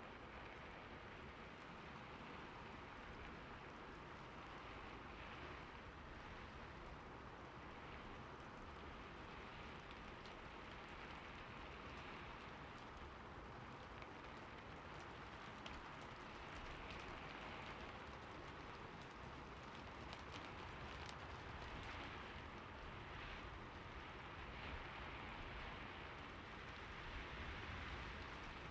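Steady rain falling on a roof, an even patter with scattered individual drop ticks that swells gently now and then.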